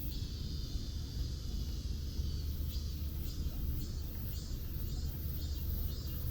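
Steady low rumble of city traffic, with the walker's footsteps scuffing on pavement about twice a second. A thin high steady sound is heard in the first couple of seconds.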